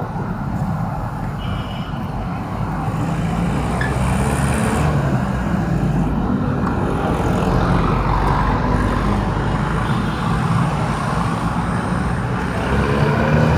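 Motor vehicle engines and city street traffic: a steady drone with a low engine hum that shifts in pitch.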